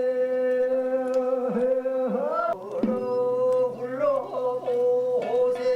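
Korean traditional field-song music: a melody line held on one steady pitch with short bends and dips, over a lower sustained tone, with a second low held tone joining about halfway through.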